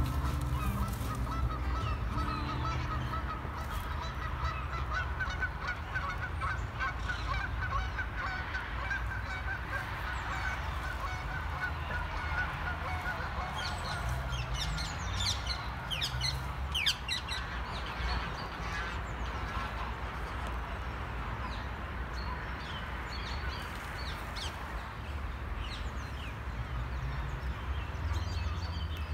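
Birds calling outdoors: a run of repeated calls in the first half, then a flurry of short high chirps about halfway through, over a steady low rumble.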